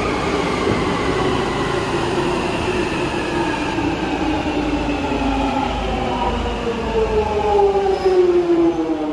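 London Underground train running with a rumble from the track, its motors whining in several tones that fall steadily in pitch as the train slows. The whine grows louder in the last couple of seconds.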